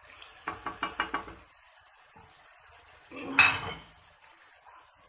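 Metal spoon tapping and scraping in a cooking pot of simmering liver curry, a quick run of about six taps, then one louder metal clatter a few seconds later, the pot lid being set on for slow cooking, over a faint sizzle.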